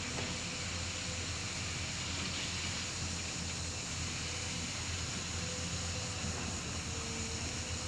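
An engine running steadily, a low drone with a faint higher tone that comes and goes.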